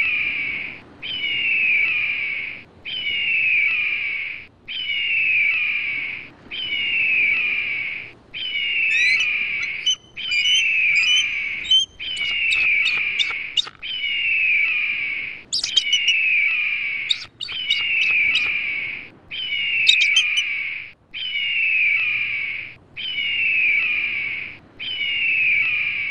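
A bird's call repeated about fourteen times at even spacing, each phrase about a second and a half of rapid falling notes. Other birds' short chirps and whistles join in the middle.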